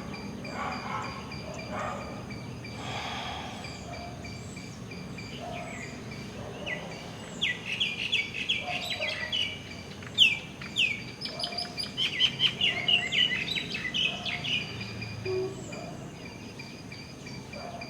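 Birds chirping, with two quick runs of rapid chirps a little past the middle, over a steady faint background noise.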